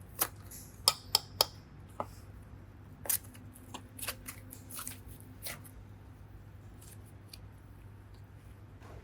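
A run of sharp clicks and taps from hard craft items being handled: four loud ones close together in the first second and a half, then lighter scattered ones that die away about six seconds in, over a steady low hum.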